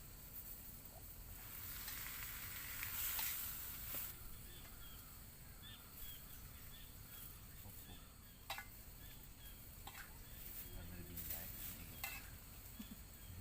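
Food sizzling as it fries in a pan, swelling for a couple of seconds early on, with a few sharp clicks later.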